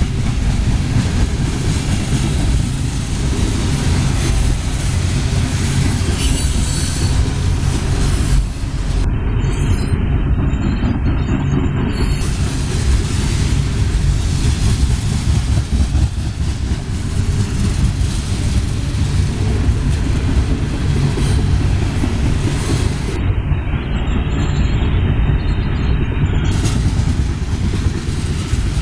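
Freight cars of the CSX Tropicana juice train rolling past close by at about 24 mph, a steady loud rumble of steel wheels on rail.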